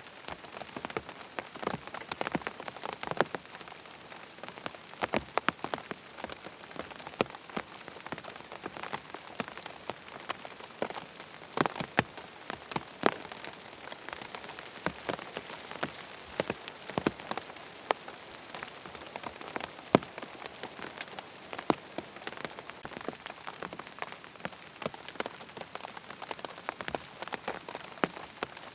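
Steady rain falling, with many sharp individual drops ticking irregularly over the hiss.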